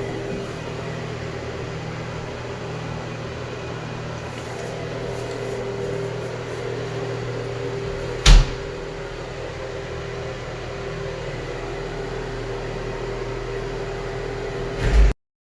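Steady motor hum holding one even mid tone, with a single sharp knock about eight seconds in and another just before the sound cuts off.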